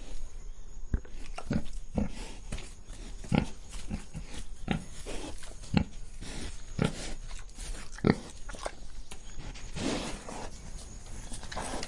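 Pig grunting over and over in short grunts, one or two a second.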